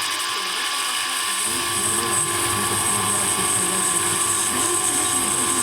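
A small high-speed power tool running steadily with a high whine. About a second and a half in, its sound fills out in the low end.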